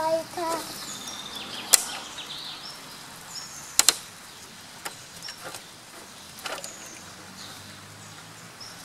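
Toy vehicles and pieces being handled: a few sharp clicks and knocks, the loudest a double click about four seconds in, with faint squeaks.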